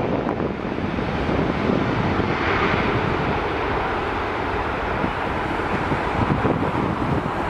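Airliner engine noise, a steady rush, mixed with wind buffeting the microphone.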